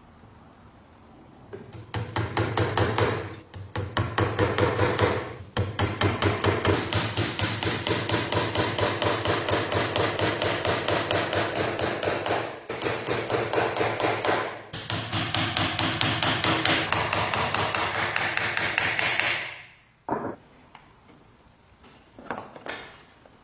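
Rapid, evenly spaced sharp strikes, about four a second, in several long runs broken by short pauses, stopping about twenty seconds in. A few scattered knocks follow.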